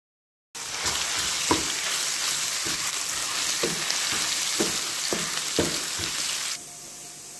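Garlic and ginger paste sizzling as it fries in hot oil with cumin seeds, while a wooden spatula stirs and scrapes the pan in several short strokes. The sizzle starts abruptly about half a second in and drops to a quieter hiss near the end.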